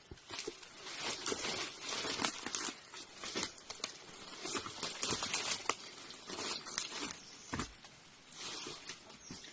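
Continuous irregular rustling and crackling, like dry leaves, twigs and brush being trodden on or pushed through.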